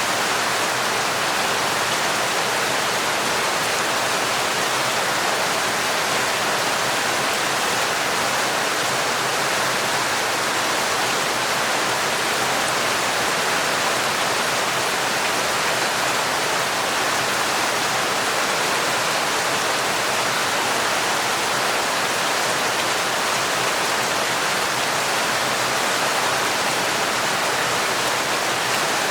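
Heavy, torrential rain falling in a dense, steady hiss with no separate drops standing out.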